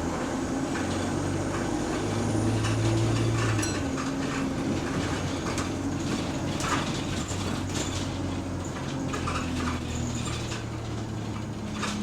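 Bus engine and road noise heard from inside the passenger saloon, with the engine note shifting as it drives, and interior fittings clicking and rattling throughout.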